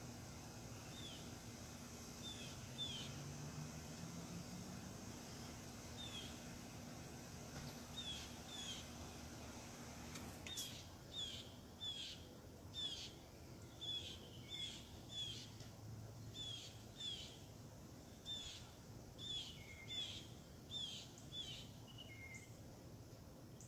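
A small bird calling with short, quick, falling chirps, a few scattered ones at first and then about two a second from about ten seconds in, over a faint outdoor background. A steady low hum stops at about the point the chirping speeds up.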